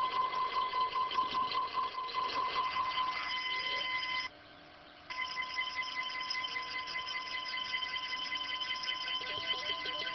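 Stepper motors of a CNC hot-wire foam cutter whining steadily as they drive the wire through a wing-core cut. The pitch of the whine shifts about three seconds in, the motors drop out for under a second about four seconds in, and near the end a faster, pulsing pattern joins as the motion changes.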